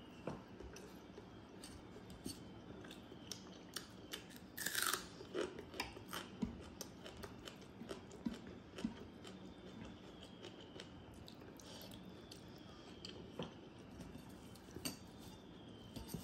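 Eating by hand: chewing and crunching, with wet squelches as fingers mix rice soaked in water. The sound comes as a string of short sharp clicks, with one longer wet sound about five seconds in.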